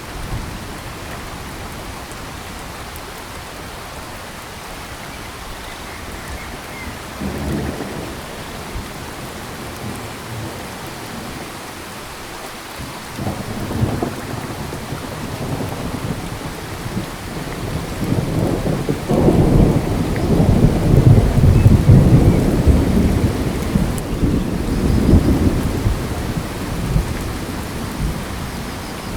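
Steady rain falling in a tropical forest, with thunder rumbling: two short rumbles, then a long, loud rumble in the second half that fades out near the end.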